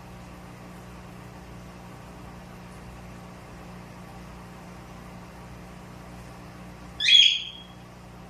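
A single short, shrill bird call about seven seconds in, high-pitched with a falling edge, over a steady low hum.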